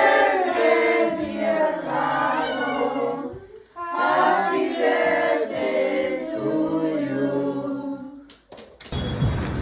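Several voices singing together without instruments, in two long phrases with a brief pause between them. Near the end it cuts to a steady rushing noise like rain.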